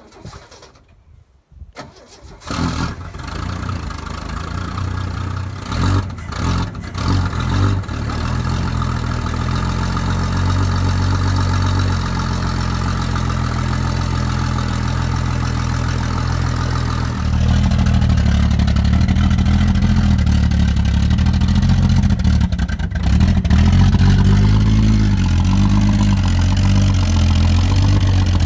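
XR Ford Falcon ute's long-dormant engine cranking and catching, stumbling unevenly for a few seconds, then settling into a steady run. About two-thirds of the way through it gets louder and deeper, with a brief dip shortly after.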